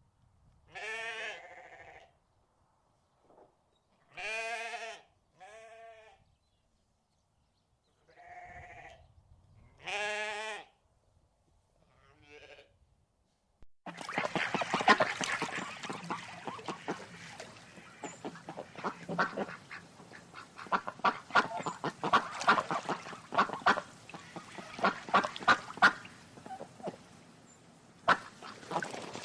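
Sheep bleating: about six separate wavering calls, each about a second long. From about halfway through, a flock of ducks quacks rapidly and continuously, and this is louder.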